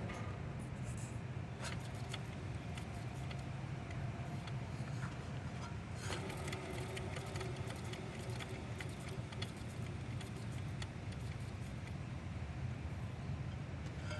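Ford Explorer engine running steadily, with a faint whine and scattered light metallic ticks from the accessory drive, which the owner puts down to a bad pulley and alternator.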